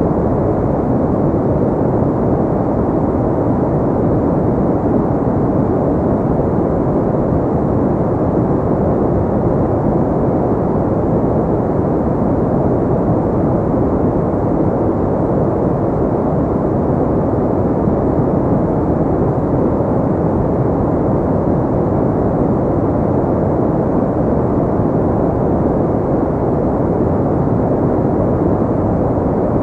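Continuous synthetic pink noise: a steady, even rush with no variation, weighted toward the low and middle range with little treble.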